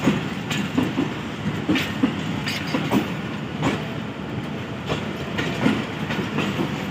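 Pakistan Railways passenger coaches rolling along a platform as an express train arrives. The wheels run with a steady rumble and a run of uneven clacks over the rail joints.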